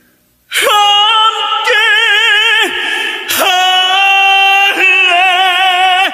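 A male tenor voice singing long, high held notes with wide vibrato, in two phrases that begin about half a second in.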